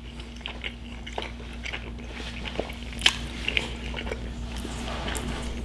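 A person chewing a mouthful of spaghetti carbonara, with small mouth clicks scattered through the chewing.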